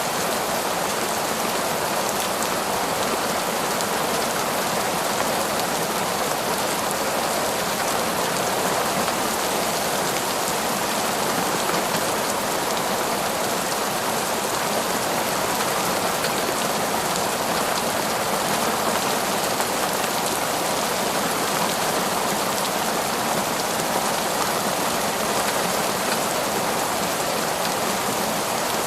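Heavy, steady downpour of rain, a dense even hiss of countless drops with no break or change.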